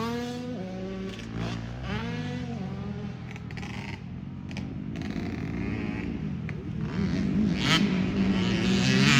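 Several motocross dirt bikes out on the track, their engines revving up and down through the gears at once. One bike grows louder toward the end as it comes closer.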